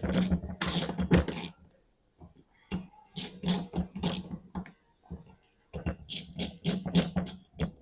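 Metal parts and hand tools clattering and clicking in irregular bursts of rapid knocks, with short pauses between, as an AD-9 air dryer valve is worked on by hand.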